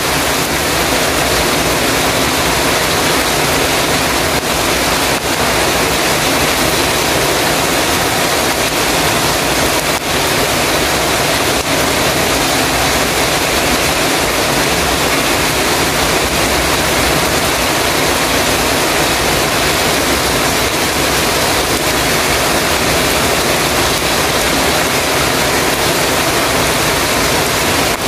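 Heavy rain falling on a metal roof, a dense, steady hiss.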